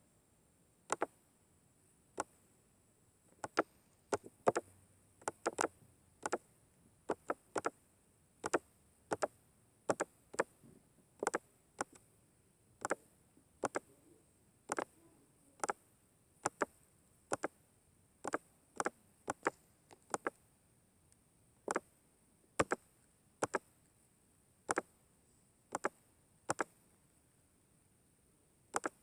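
A series of sharp single clicks, roughly one a second at uneven spacing, over a faint steady high hiss.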